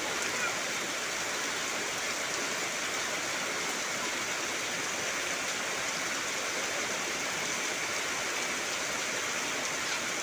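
Heavy rain falling on trees and foliage, a dense, steady hiss of drops without let-up.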